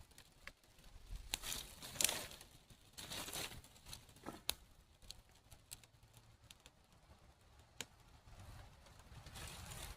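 Scattered sharp crackles and snaps with short bursts of rustling: a small wood fire, lit with dried birch bark, burning as sticks are fed onto it. The sharpest snap comes about two seconds in.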